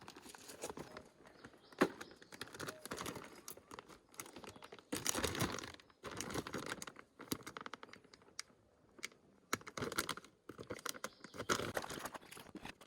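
Handling noises: irregular crinkling and rustling, like plastic bags or packaging, with scattered light clicks and knocks, quieter for a moment about two-thirds of the way through.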